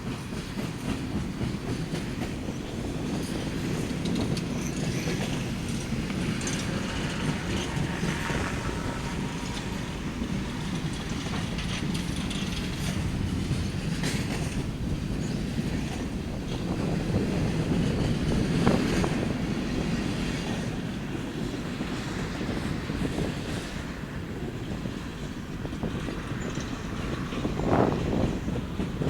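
A train rolling past on the BNSF line, a steady low rumble with the wheels clicking and clattering over rail joints, a couple of sharper clanks near the middle and near the end.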